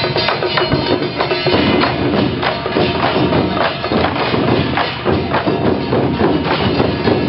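Temple procession percussion playing a rapid, clattering beat of dense, closely spaced strikes.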